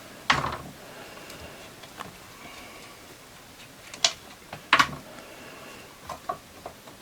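Clicks and knocks from a chainsaw being handled as its bar nuts are taken off for a chain change: a sharp knock just after the start, two more about four to five seconds in, and a few light clicks near the end.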